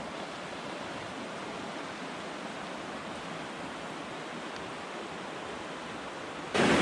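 Rushing river water in a rocky gorge: a steady, even hiss of fast current.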